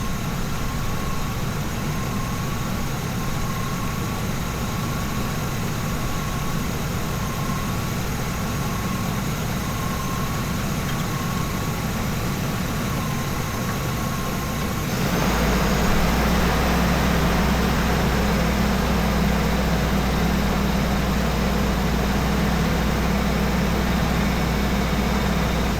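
Ambulance engine idling steadily while an engine flush circulates in the oil. About 15 seconds in the sound abruptly becomes a louder, steadier low hum with more hiss.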